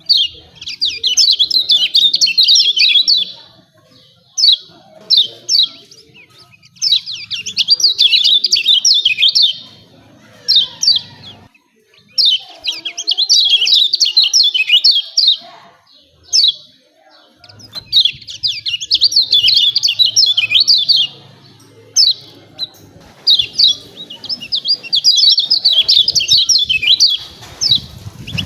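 Kecial kuning white-eye giving its 'ciak ciak' call: fast chattering runs of high chirps, each lasting two to four seconds, repeated about every five to six seconds, with a few single sharp chirps between the runs.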